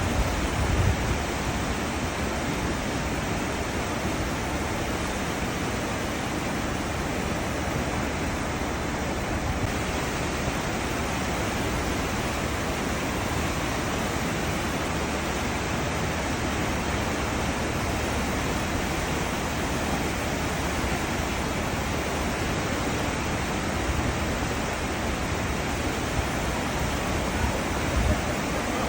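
Cruise ship wake: a steady, even rush of churning seawater behind the ship, with a few brief low thumps near the start and near the end.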